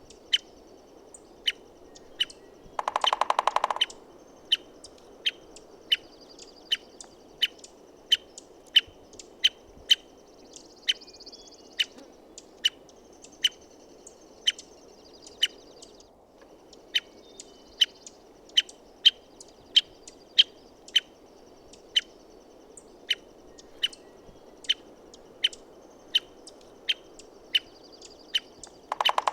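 American three-toed woodpecker giving short, sharp call notes over and over, about one every half second or so. About 3 s in, and again at the very end, comes a roughly one-second drum roll of rapid, even knocks on wood.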